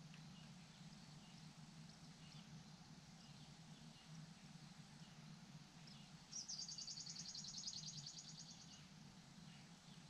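A small songbird's rapid, high trill lasting about two and a half seconds, starting about six seconds in, over faint scattered high chirps and a low steady hum.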